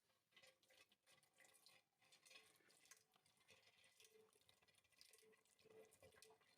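Faint trickling and splashing of liquid, with many small irregular drips and clicks.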